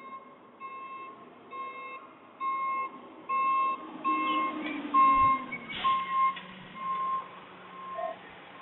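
Garbage truck's reversing alarm beeping steadily, about one beep every three-quarters of a second. Partway through, a lower engine tone falls in pitch, and there is a knock about five seconds in.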